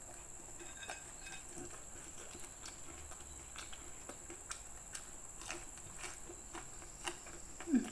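Close-up chewing of crisp grilled ulen and rempeyek: soft, irregular crunches and clicks from the mouth. Near the end comes a short falling hum from the eater.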